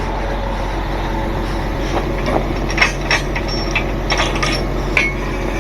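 Truck engine idling steadily, with a series of short metallic clanks and clinks over it from about two seconds in.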